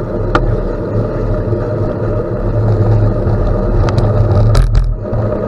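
Steady rumble of riding a gravel bike: gravel crunching under the tyres and wind on the microphone, with a few sharp clicks and rattles near the start and around four seconds in.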